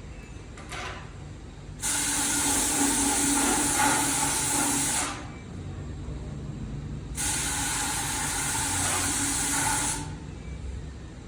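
Two bursts of pressurised spray hissing, each about three seconds long with a pause of about two seconds between, starting and stopping sharply.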